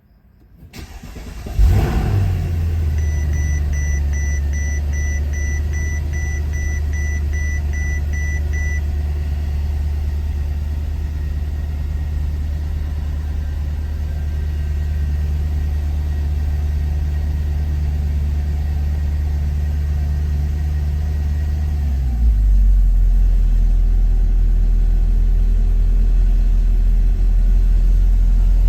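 2008 Mercedes-Benz CL63 AMG's 6.2-litre V8 cold-started: a brief crank, a loud flare as it catches, then a steady fast cold idle. A chime beeps about twice a second for several seconds just after the start. About three-quarters of the way through, the idle drops to a lower, deeper note as it settles.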